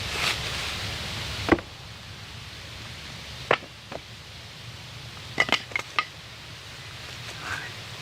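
Scattered sharp clicks and light metallic clinks of hand tools and wood being handled. A steady rustling noise ends with a sharp click about a second and a half in, and a quick cluster of clicks follows a little later.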